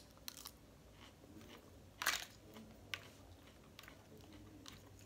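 Close-miked chewing of a mouthful of lettuce salad: soft crunching with a few sharp, crisp clicks, the loudest about two seconds in.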